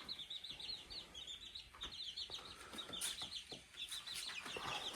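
A group of young chicks, about a month old, peeping continuously: many short high cheeps in quick succession. A few faint clicks are mixed in.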